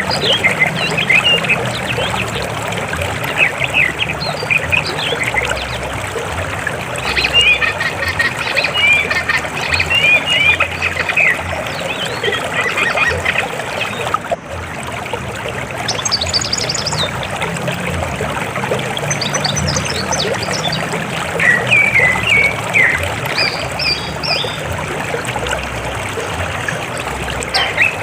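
River water flowing steadily, with birds chirping over it in bursts of short calls.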